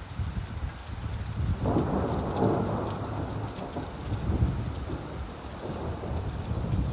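A roll of thunder over steady rainfall: the rumble swells in about a second and a half in and dies away slowly, with the patter of rain continuing underneath.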